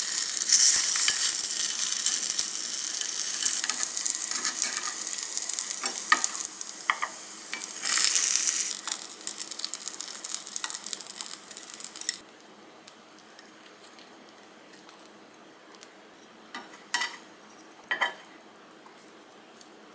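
Dumplings sizzling as they pan-fry in hot oil in a nonstick frying pan, the sizzle loudest at first and easing off before stopping abruptly about two thirds of the way through. A few light clicks follow near the end as chopsticks lift the last dumplings from the pan.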